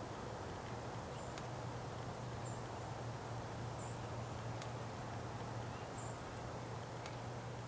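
Snowy outdoor ambience: a steady low hum under a soft even hiss, with short, faint, high-pitched chirps repeating every second or two.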